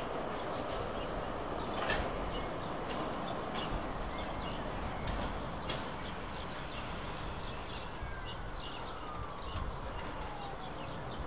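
London Underground tube train running into the platform and slowing: a steady rumble with a couple of sharp clicks, and a faint falling whine near the end as it comes to a stand.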